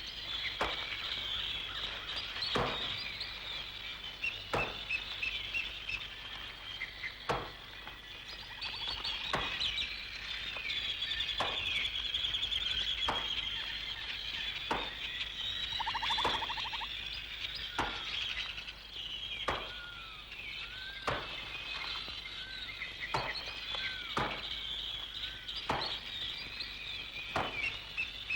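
An axe chopping wood, one blow about every one and a half to two seconds, over continuous birdsong.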